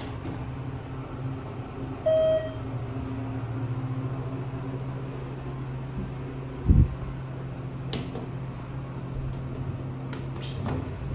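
Steady low hum of a ThyssenKrupp hydraulic elevator running, with a single short electronic beep about two seconds in and a brief low thump a little past the middle.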